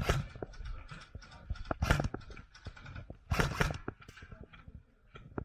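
Short clusters of sharp clicks and knocks from airsoft guns firing in quick strings, with the densest run about three and a half seconds in.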